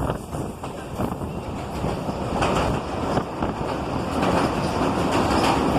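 Mumbai suburban local train running on the rails, its wheels clattering over the track in a continuous rattle. It grows somewhat louder about two seconds in.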